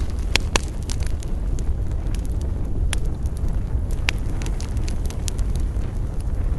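Campfire crackling, with frequent sharp pops over a steady low rumble.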